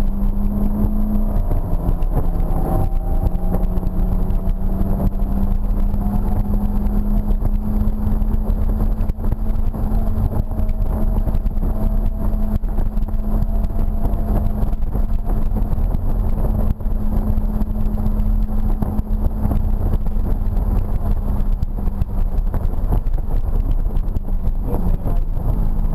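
BMW E46 M3's S54 inline-six running hard at a steady engine note, heard from inside the cabin, over a constant rush of road noise.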